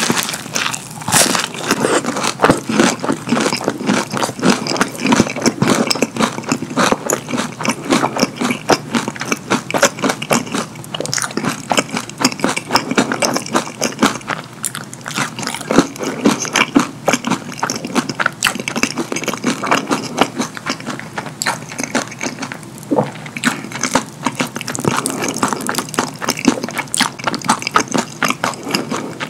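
Close-miked chewing of a crispy McDonald's hash brown coated in cheese sauce: a bite right at the start, then crunching and wet mouth smacking with many quick crackles throughout.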